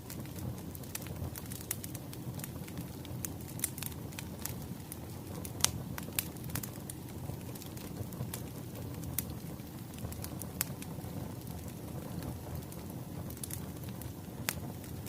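Wood fire crackling: a steady low rumble of burning logs with scattered sharp pops and snaps, the loudest about five and a half seconds in.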